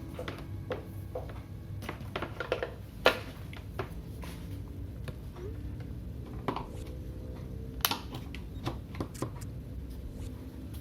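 Irregular light clicks and taps of small hard objects being handled, with two sharper knocks, one about three seconds in and one near eight seconds.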